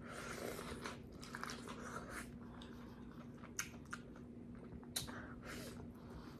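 Close-up mouth sounds of a person chewing and smacking on food, potatoes and corn, with a few sharp clicks about three and a half and five seconds in.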